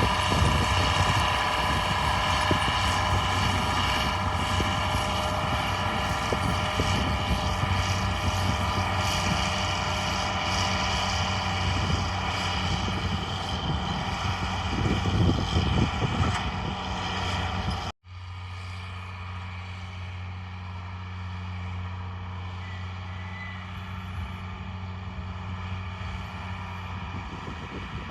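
John Deere 4955 tractor's six-cylinder diesel engine running steadily with a deep hum. About two-thirds of the way through, the sound cuts off abruptly and returns quieter and steadier.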